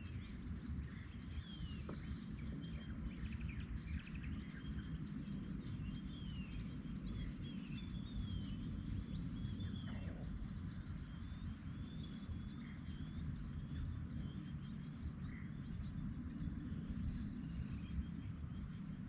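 Several birds calling, with many short chirps and whistles that slide up and down in pitch, over a steady low rumble.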